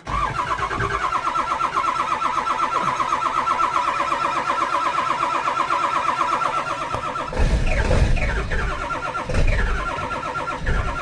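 Ford diesel truck's starter cranking the cold engine after glow plugs and starting fluid, a steady whirring whine with rapid even pulses. From about seven seconds in the engine fires in several heavy, uneven bursts, about one a second, but does not catch and run.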